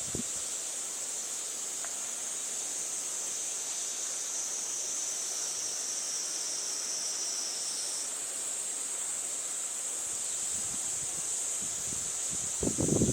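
Steady high-pitched insect chorus over wind moving through foliage, with low gusts of wind buffeting the microphone near the end.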